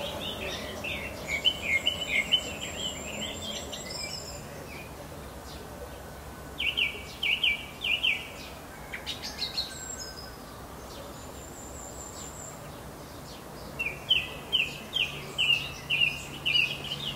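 Songbird singing: three bouts of rapid short notes, about one to four seconds in, around seven seconds in and again near the end, with a thin high whistle between bouts.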